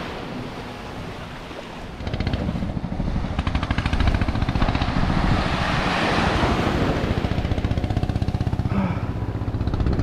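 A boat's engine running close by with a rapid pulsing beat. It cuts in suddenly about two seconds in, over wind and surf.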